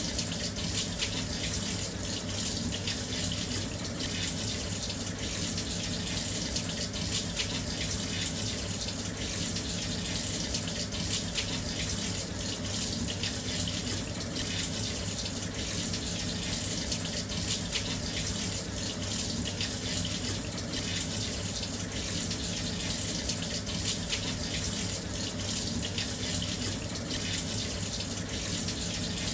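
Washing machine filling with water: a steady, continuous rush of water pouring into the drum, with a low hum beneath it.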